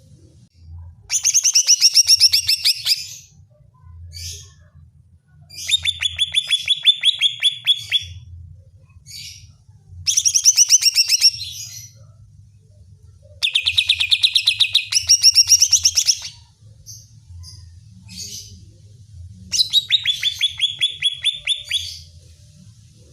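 Green leafbird (cucak ijo) song: five loud phrases of fast, rapidly repeated trilled notes, each lasting one to two and a half seconds, a few seconds apart.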